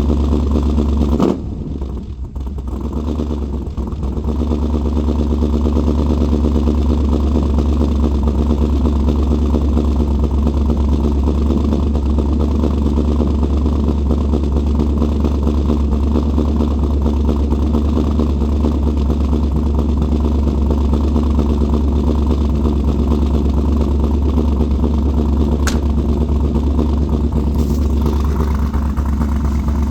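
Vehicle engine idling steadily after a cold start. About a second in its sound drops sharply and builds back up over the next few seconds, and a single sharp click is heard near the end.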